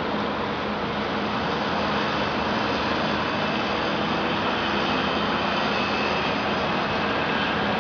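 Construction-site machinery running steadily at night: a continuous noise with a constant low hum, no breaks or changes in level.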